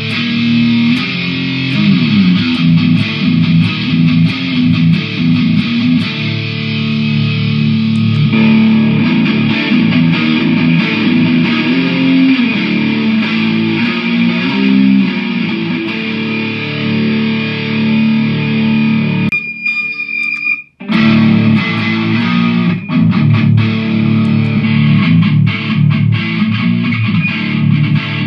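Electric guitar played through a Mooer GE150 multi-effects unit with a distorted tone, a run of sustained riffs and notes. The sound cuts out briefly about two-thirds of the way through, then the playing resumes.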